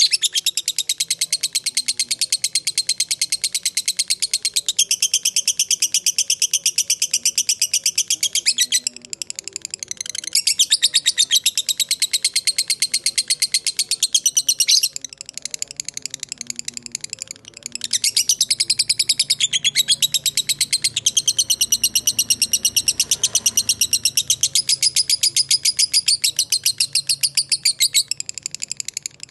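Lovebird giving the long 'ngekek' chatter: a high-pitched, very rapid run of repeated notes held for several seconds at a stretch, with short breaks about a third of the way in, around the middle and just before the end.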